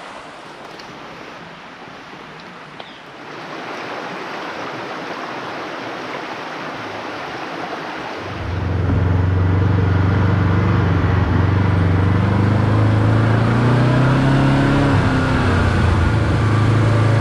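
A steady rushing noise, then about eight seconds in a side-by-side UTV engine comes in abruptly and runs at a steady low pitch, wavering slightly near the end.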